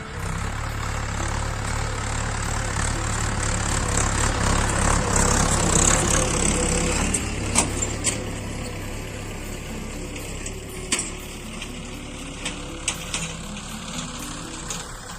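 Mahindra 415 DI SP Plus tractor's diesel engine running steadily, growing louder for a few seconds in the middle, with a few sharp clicks or knocks in the second half.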